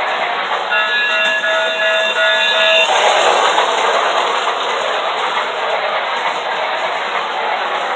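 New Bright G-scale toy steam train running on its track, a steady whirring hiss of motor and wheels. From about one to three seconds in, a pulsing, chord-like whistle sounds over it.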